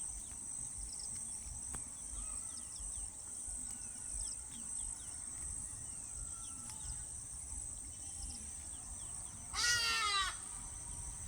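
Steady high-pitched insect chorus with scattered faint bird chirps. Near the end a single short, loud, wavering animal call cuts in.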